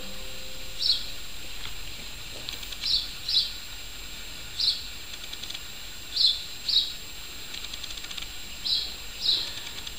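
A small bird chirping: short, high, downward-slurred chirps every second or two, several coming in quick pairs, over faint outdoor background noise.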